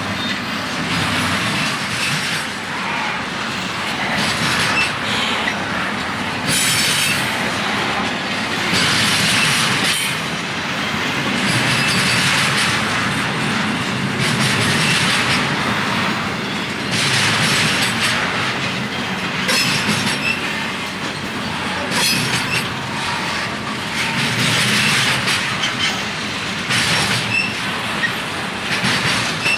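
Freight train cars rolling past, steel wheels clacking over the rail joints, with a regular swell about every two and a half seconds as each car goes by.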